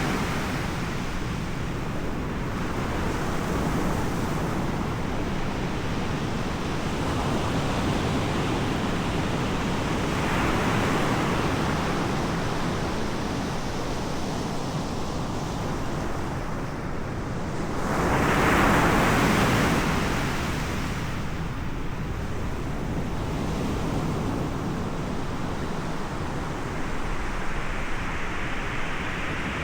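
Ocean surf: waves breaking and washing up the shore as a continuous rush of noise that swells and ebbs, with the loudest wave surging about two-thirds of the way through.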